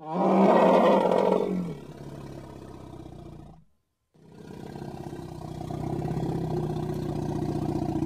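African elephant calling twice: a loud, harsh blast that fades after about a second and a half and trails off, then, after a short break, a longer, lower, steady call that swells and is held.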